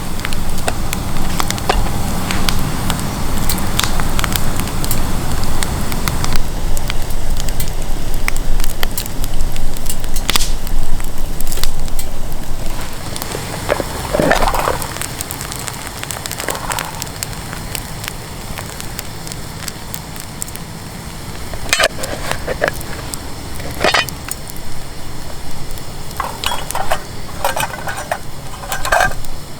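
Wood campfire crackling, with scattered sharp pops and a low rushing noise that is stronger for the first dozen seconds and then eases.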